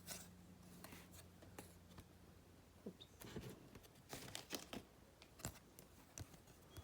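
Faint scattered clicks and rustles of trading cards being handled and slid one across another while flipping through a pack, with a cluster of them from about three to five and a half seconds in.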